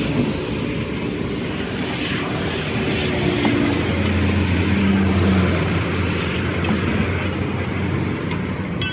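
A steady engine drone, swelling a little in the middle.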